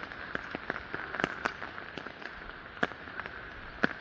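Rain falling, with scattered, irregular sharp taps of drops landing close to the microphone over a steady hiss.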